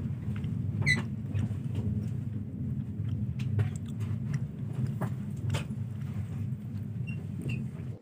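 Train running on the rails, heard from inside the carriage: a steady low rumble with scattered clicks and knocks, cutting off abruptly at the end.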